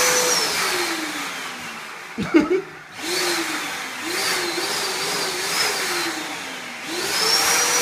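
Electric vacuum cleaner motor whining as it winds down over the first two seconds. A sharp knock comes a little after two seconds. The motor then speeds up again with a wavering pitch, drops once more and runs back up to full speed near the end.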